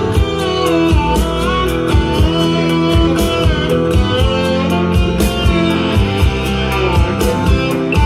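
Rock band playing an instrumental passage: electric guitars with a gliding lead line over a steady drum beat and bass.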